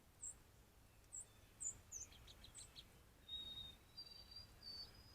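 Faint bird calls: about five short, high chirps in the first three seconds, then a few thin, steady whistled notes toward the end.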